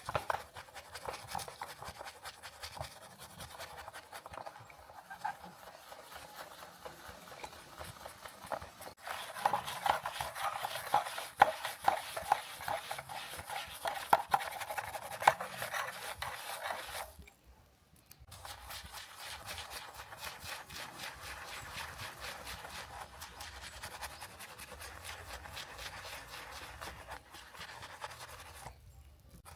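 Rapid, continuous scrubbing strokes on a 1:18 scale model car. They grow louder for several seconds in the middle, stop for about a second, then carry on more softly.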